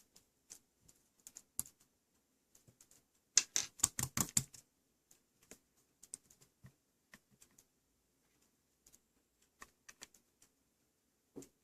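Light, irregular clicks and taps, with a dense run of louder clicking about three and a half seconds in that lasts about a second.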